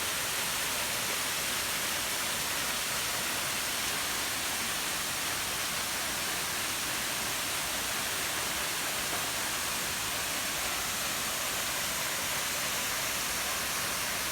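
A tall waterfall, about 100 m high, pouring steadily: an unbroken hiss of falling water that holds the same level throughout.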